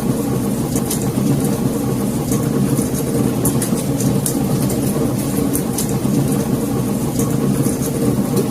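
Wood fire in a fireplace burning with a steady low rumble and irregular sharp crackles and pops, a few each second.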